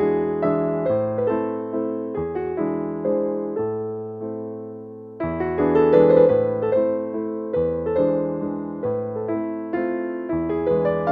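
Background piano music: a gentle melody with chords over low bass notes, which turns louder about five seconds in.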